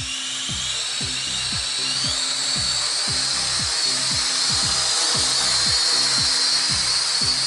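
An MJX toy quadcopter's small motors and propellers whine, rising in pitch over the first two seconds as they speed up and then holding a steady high whine in flight. A background music beat plays underneath.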